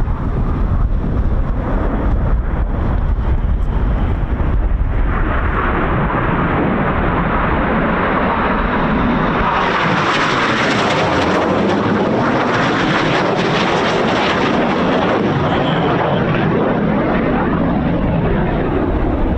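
Red Arrows BAE Hawk T1 jets passing by: turbofan noise builds from about five seconds in, peaks loudest and brightest around the middle, then fades toward the end. Wind rumbles on the microphone at the start.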